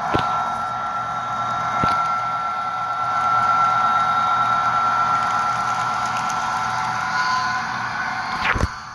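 Sound decoder in an HO-scale SD70ACe model locomotive playing diesel locomotive running sounds through its small speaker, a steady high whine over the engine note. There are a few sharp clicks, the strongest near the end.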